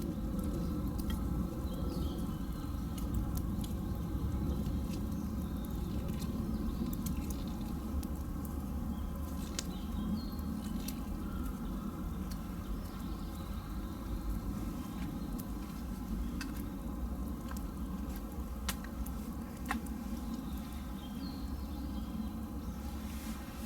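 Wood campfire burning, with a steady low rumble and scattered sharp crackles and pops from the wood.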